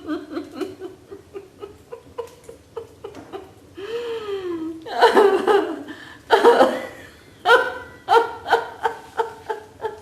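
Laughter-yoga laughter: rapid runs of short ha-ha-ha pulses, rising into louder peals about five seconds in and again about a second and a half later.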